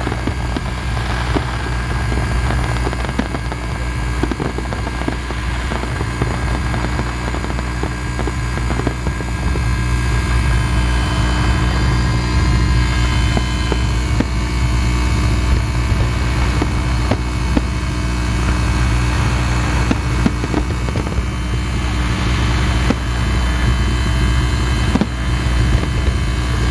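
Fireworks display: a continuous low rumble of bursts with many sharp cracks and pops scattered through it.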